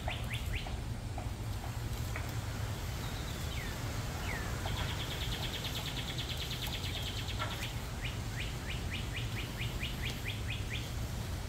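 Wild songbirds singing: scattered high chirps, a fast trill a few seconds in, and a run of quick repeated notes, about four a second, in the second half. A steady low rumble lies underneath.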